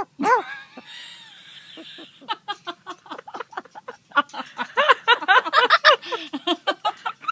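Laughter: a few short rising-and-falling calls, then from about two seconds in a long run of quick, short ha-ha notes.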